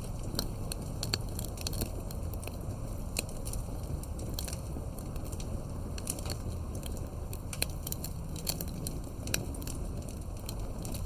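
Wood campfire burning: a steady low noise of flame with frequent sharp, irregular crackles and pops.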